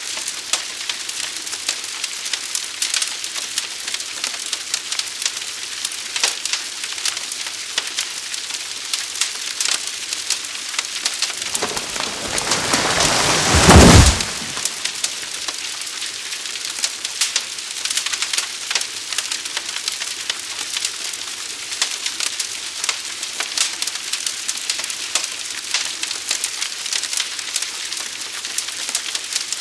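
Forest fire burning: steady crackling and hissing with frequent sharp pops. About twelve seconds in, a rushing whoosh swells over two seconds and cuts off abruptly.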